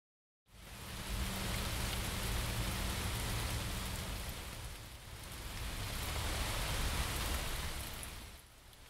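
Rain sound played back by a sound installation: a dense, steady hiss of rain with a low rumble underneath. It starts abruptly about half a second in, swells and eases, and drops lower near the end.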